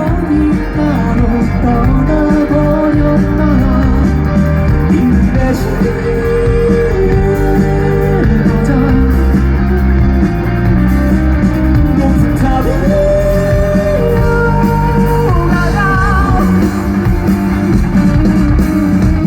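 Live rock band playing: electric guitars, bass and drums under a male lead vocal that holds long, wavering notes.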